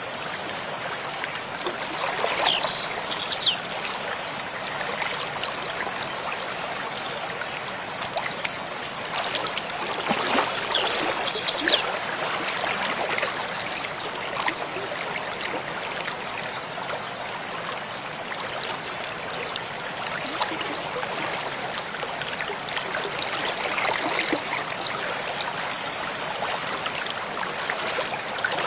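Mountain stream flowing steadily. A bird sings two short, high, rapid trills over it, a couple of seconds in and again about ten seconds in.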